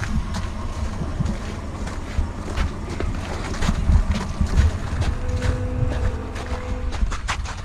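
Wind buffeting the microphone as a steady low rumble, with scattered short clicks and crunches of handling or movement on the ice.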